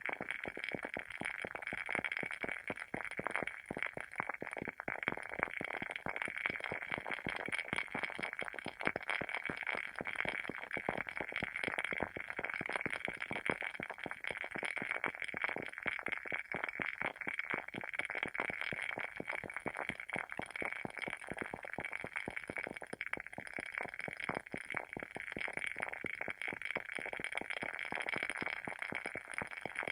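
WoodWick candle's wooden wick crackling as it burns: a dense, continuous run of small snaps and pops.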